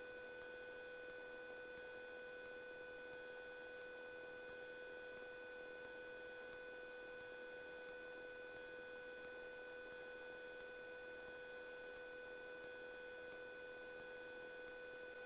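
Faint steady electrical whine made of several fixed tones over a low hiss, with a slight regular pulse: noise on the aircraft's intercom audio feed, with no engine sound coming through.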